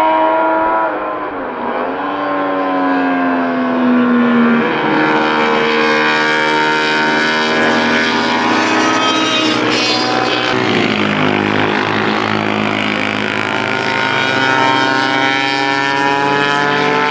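Several classic racing motorcycles at racing speed, their engines overlapping, each pitch rising and falling as they pass and change gear. The sound cuts off abruptly at the end.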